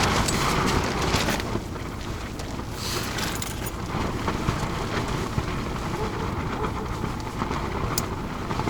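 Gusty wind rumbling over the microphone, with stronger gusts in the first second and a half and again about three seconds in.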